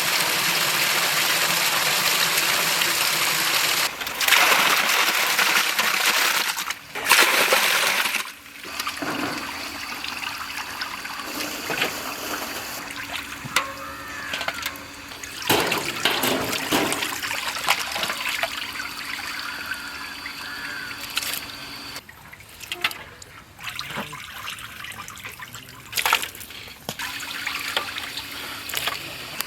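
Water poured in heavy gushes and splashing for roughly the first eight seconds, in three pours. It then settles into lighter trickling and splashing with scattered clatters, as fish is washed by hand.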